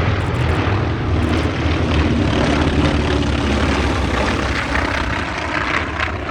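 North American T-28 Trojan trainers flying overhead: a loud, steady propeller-engine drone that fades a little near the end.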